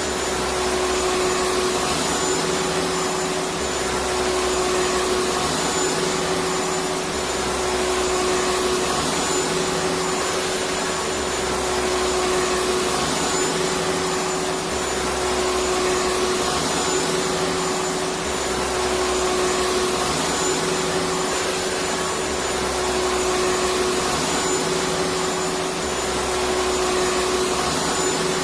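Electric vacuum cleaner running steadily: an even rushing hiss with a constant whine, and a low hum that swells and fades every couple of seconds.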